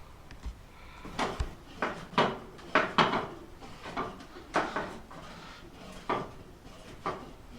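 Old butter churn being worked by hand, its dasher plunged up and down and knocking in the churn: a string of about ten uneven knocks, roughly one or two a second.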